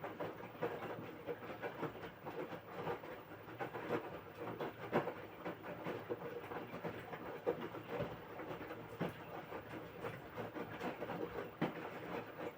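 LG 6.5 kg washing machine running the wash stage of its quick program: the drum turns the wet load, with a steady churning and many irregular small knocks.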